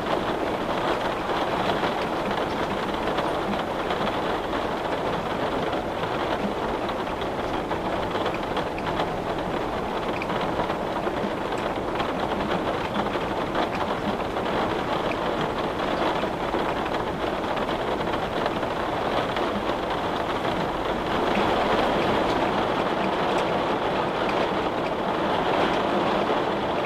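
Steady rain falling, heard at a window, getting a little heavier about two-thirds of the way through.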